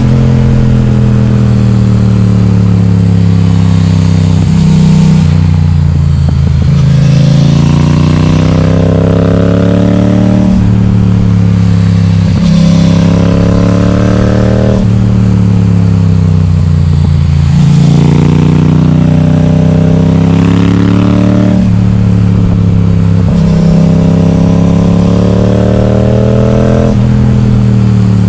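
Yamaha XSR700's parallel-twin engine running loud through an Akrapovic exhaust with its baffle removed. Its pitch climbs over a second or two as the rider accelerates, then drops sharply at each shift or roll-off, about six times over.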